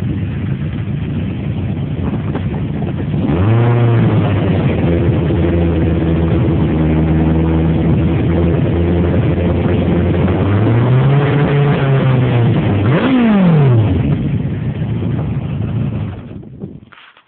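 Yamaha XJR1300's air-cooled inline-four through Scorpion Street Extreme end cans, with heavy wind noise on the microphone. About three seconds in the revs rise and are held steady, then flare up and back twice near the end, the second time falling away sharply, before the sound cuts out just before the end.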